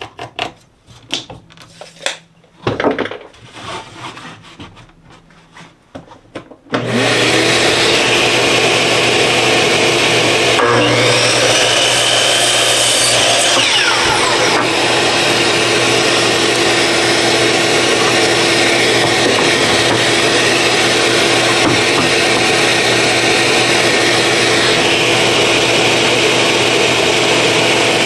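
Scattered knocks and clicks of boards being handled. Then, about seven seconds in, a power-tool motor switches on and runs steadily with a constant hum.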